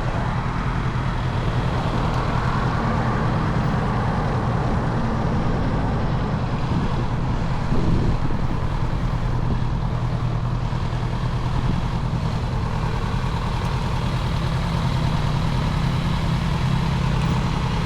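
Motorcycle engine running at a steady cruise, with road and wind noise, heard from the bike while riding.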